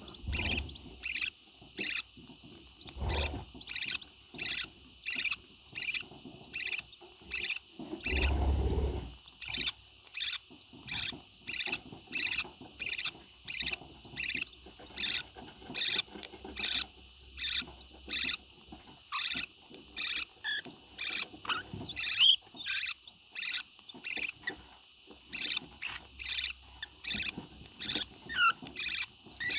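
Parrot making short high squeaks in a steady run, about two a second, with a brief low rumble about eight seconds in.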